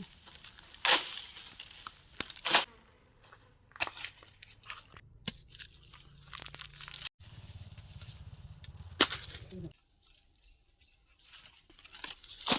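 Irregular crackling and rustling of leaves and twigs, with sharp snaps here and there, as branches are handled and guavas picked.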